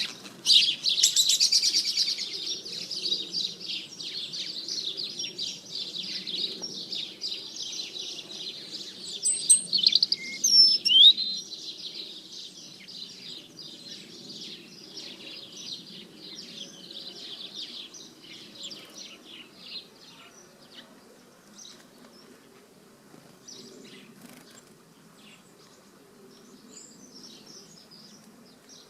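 Small garden songbirds chirping and twittering in a dense stream, loudest over the first dozen seconds with a few quick sliding whistles, then thinning to scattered chirps.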